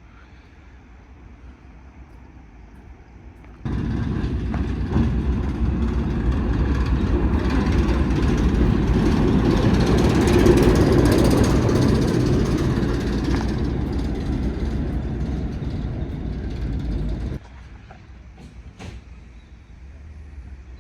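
A train running past with a loud, even rumble that swells to a peak midway and then eases off.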